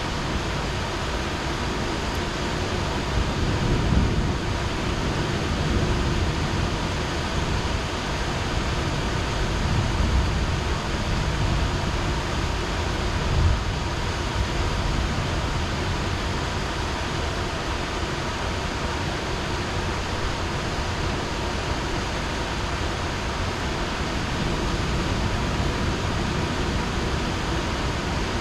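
Heavy rain falling steadily, with a few low rumbles swelling in the first half.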